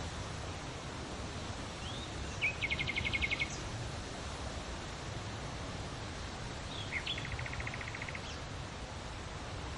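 Steady wind noise with a low rumble. A small bird sings twice, each song a couple of quick rising notes and then a fast, even trill, about two and a half seconds in and again, fainter, about seven seconds in.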